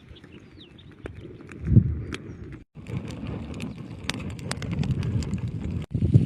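Campfire crackling: sharp, irregular pops and snaps over a steady low noise. The sound breaks off briefly twice.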